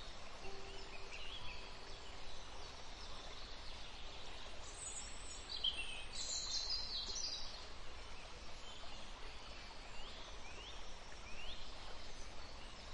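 Outdoor nature ambience: a steady hiss with scattered bird chirps, a busy cluster of calls about five to seven seconds in and three short sliding calls around ten to eleven seconds.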